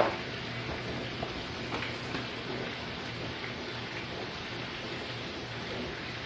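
Hamburger patties sizzling in frying pans, a steady hiss. A sharp knock right at the start.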